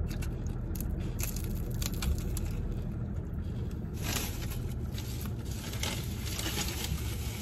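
Crunching bites and chewing of a crisp fried spring roll, with the thickest crackle about four seconds in and more near the end, over a steady low hum in the car cabin.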